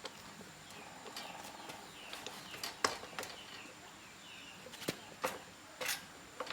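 A few sharp clicks and knocks spaced irregularly, with faint bird chirps in the background.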